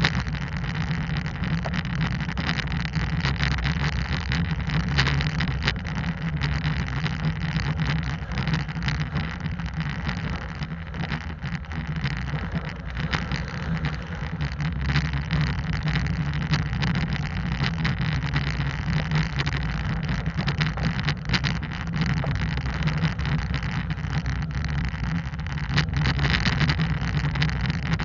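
Hyundai Santa Cruz pickup driving on a dirt trail: the engine runs steadily, heard through a camera mounted outside the truck with wind on its microphone, and many small clicks and knocks come from the rough track.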